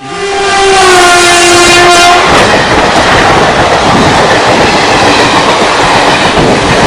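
Train horn blowing for about two seconds, a steady multi-note tone that sags slightly in pitch, over the loud noise of a train running on the rails, which carries on after the horn stops.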